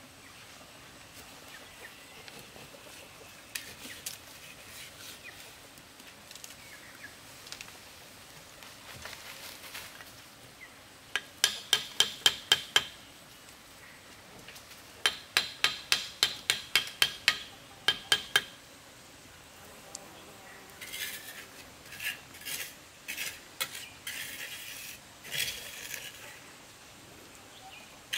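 Hard metallic clinks: a quick run of about six sharp taps, a pause, then a longer run of about ten at roughly three a second, followed by softer, irregular clicks and scrapes.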